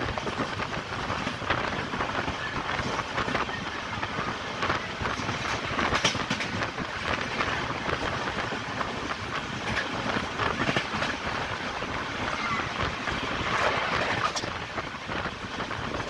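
Passenger train running at speed, heard from aboard: a steady rushing rumble of the wheels on the rails, with scattered clicks and rattles.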